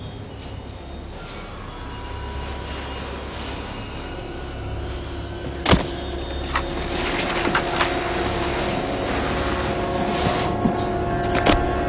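Subway film sound effects: a steady low rumble with faint thin tones over it, like a train heard through the station. A single sharp hit comes about six seconds in, and a few lighter knocks follow in the second half.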